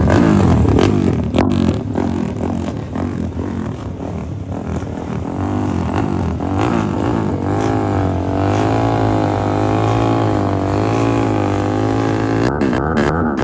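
Honda CB 300 motorcycle engine running and revving, its pitch rising and falling.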